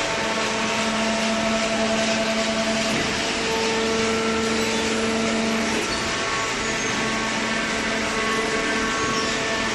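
Hydraulic baler machine running: a steady machine hum with several whining tones over it, one of which stops about six seconds in.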